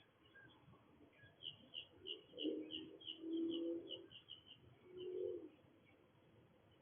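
A dove cooing: a long low coo a little over two seconds in and a shorter one about five seconds in. Over the first coo, a small bird gives a quick run of high chirps, about four a second.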